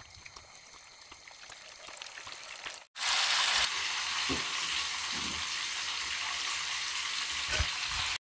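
Egg-and-cornflour-coated beef strips deep-frying in hot oil in a pan: a light crackle at first, then, after a brief cut about three seconds in, a loud, dense sizzle. A few soft knocks come through as a fork turns the pieces.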